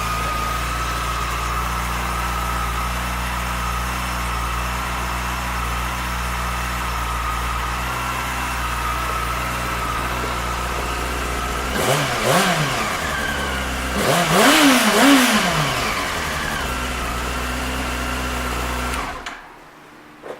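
2003 Yamaha YZF-R6's inline-four engine idling steadily. It is blipped once about twelve seconds in and twice more a couple of seconds later, then shut off near the end.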